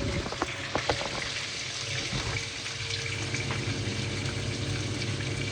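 Tomato and onion sauce sizzling and bubbling steadily in the pan as it cooks, with a few light clicks in the first second.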